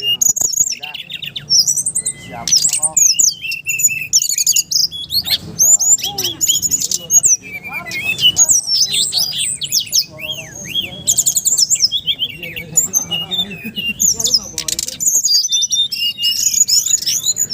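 Many birds chirping and singing at once: a loud, continuous tangle of rapid, high-pitched, overlapping calls.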